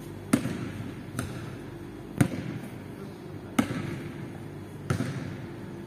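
Basketball bouncing on an indoor court floor: five uneven bounces, each echoing through the large hall, over a steady low hum.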